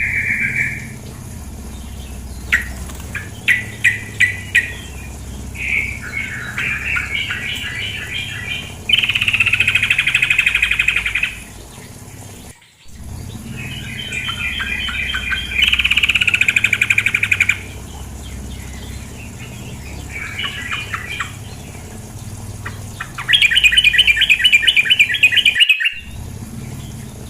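Female yellow-vented bulbul (trucukan) calling in repeated bursts of fast chattering notes, each burst lasting one to three seconds with short gaps between. The sound cuts out abruptly twice, once near the middle and once near the end.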